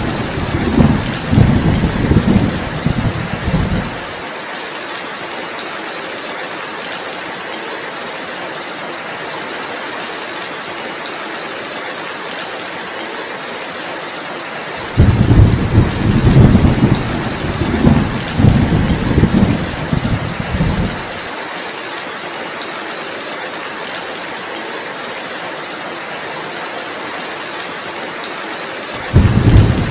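Heavy rain falling steadily, with rolling thunder rumbling for the first few seconds, again for about six seconds in the middle, and starting once more at the very end.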